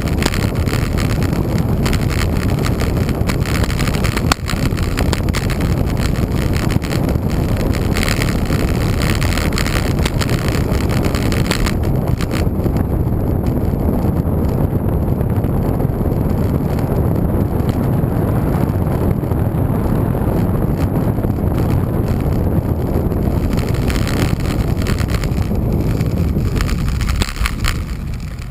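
Wind buffeting the microphone of a rider on a moving road bike: a loud, steady rumble that dies down near the end.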